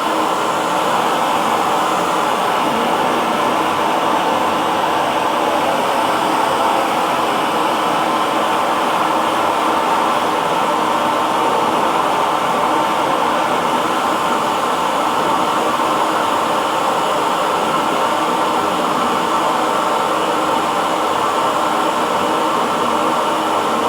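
Electric hair dryer running continuously: a steady whoosh of blown air with a faint motor hum, no change in speed.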